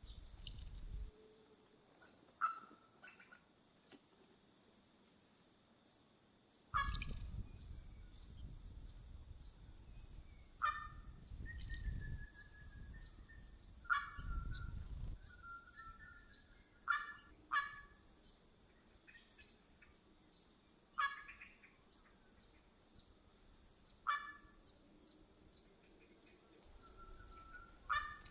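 Birds calling: a high-pitched call repeating about two to three times a second throughout, with louder sharp calls and short whistled phrases now and then.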